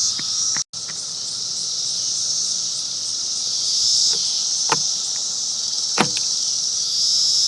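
Steady high-pitched insect chorus, like crickets, broken by a brief dropout under a second in and two sharp clicks, the second about a second and a half after the first.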